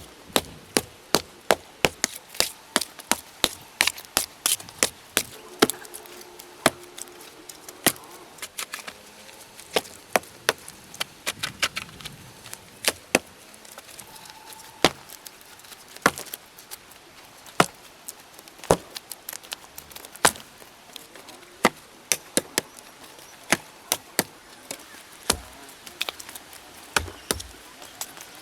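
Hand tool chopping at wood: a long run of sharp, irregular strikes, about one to three a second.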